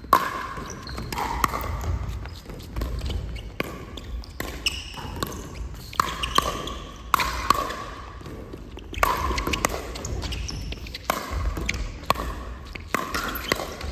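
Pickleball being hit back and forth on an indoor court: repeated sharp pops of paddle on ball and bounces, echoing in a large hall, with short squeaks between them.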